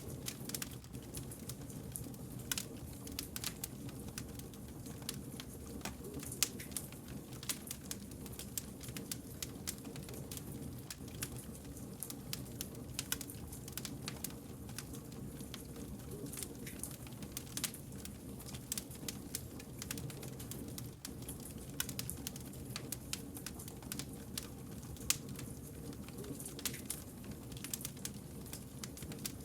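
Wood campfire crackling: frequent sharp snaps and pops, some louder than others, over a steady low rumble of the burning fire.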